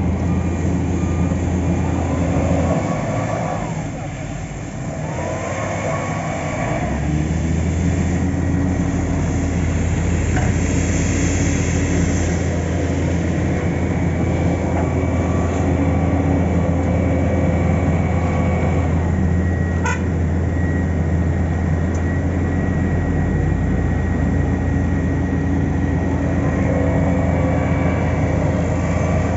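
Heavy diesel road-paving machinery running steadily, a deep continuous engine drone that dips briefly about four seconds in.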